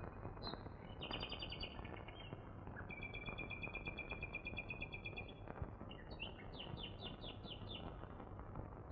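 Bird song: a short run of chirps about a second in, then a rapid trill lasting about two seconds, then a string of about seven quick down-slurred notes, over a steady hiss.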